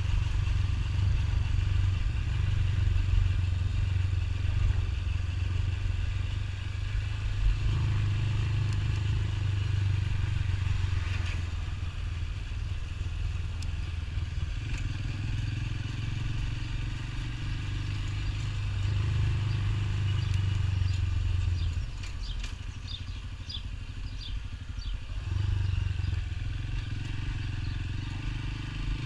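Motorcycle engine running while being ridden, its low note shifting in strength several times. It eases off about two-thirds of the way through and picks up again a few seconds later.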